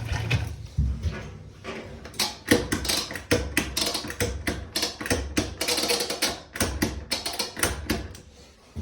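Rapid, irregular clicking and tapping, several hard knocks a second: small mechanical handling sounds.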